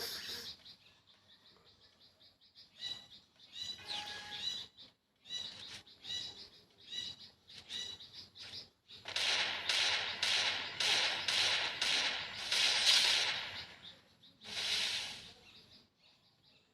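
Birds chirping in short, repeated high calls, with a louder, noisier run of rapid strokes between about nine and fourteen seconds in.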